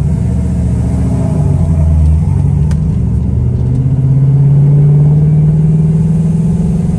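Car engine running at low speed, heard from inside the cabin, a steady drone that rises a little in pitch and loudness about four seconds in as the car gathers speed.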